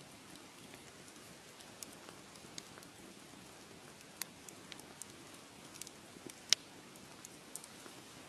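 Fireplace fire crackling: a steady low hiss under scattered sharp pops and snaps, the loudest about six and a half seconds in.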